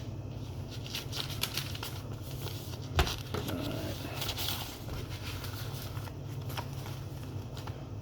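Thin Bible pages being leafed through and turned, with soft papery rustles and small ticks and a sharper knock about three seconds in, over a steady low hum.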